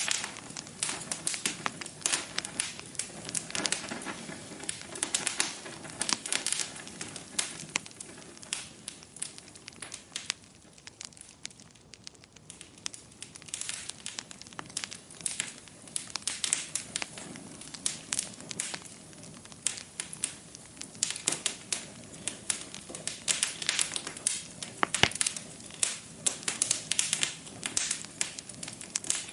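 Log fire in a fireplace crackling, with irregular pops and snaps over a soft hiss; the crackling thins out for a few seconds in the middle, then picks up again, with one sharper pop near the end.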